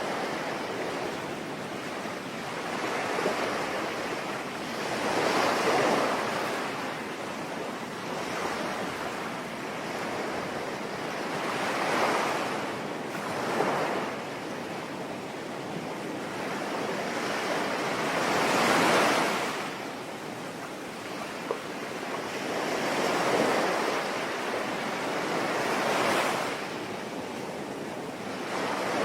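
Sea waves breaking and washing on a shore, swelling and fading every few seconds over a steady hiss of rain.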